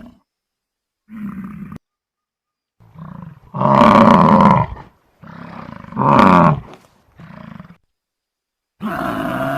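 Big cat roaring: a short grunt, then two loud full roars, then a short trailing grunt. Near the end a different steady, pitched animal call begins.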